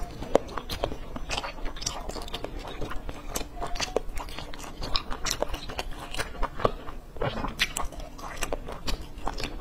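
Close-miked chewing of crisp pan-fried cakes: an irregular, steady run of crunches and wet mouth clicks.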